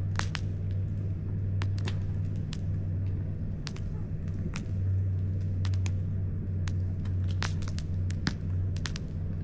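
Wood campfire crackling, with irregular sharp pops and snaps several times a second over a steady low rumble.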